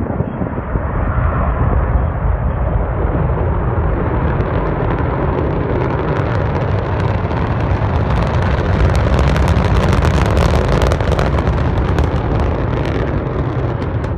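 Deep, continuous rumbling roar of the Antares rocket's launch and explosion, with dense crackling that grows brighter in the middle and eases off near the end.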